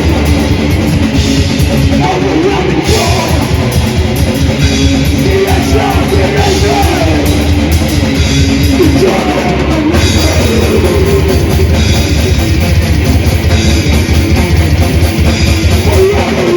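Live death/thrash metal band playing: distorted electric guitars over fast drum-kit beats with cymbals.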